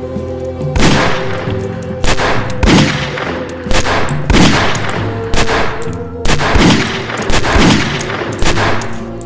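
A rapid run of gunshots, about one or two a second starting about a second in, each sharp crack trailing off, over music with long held tones.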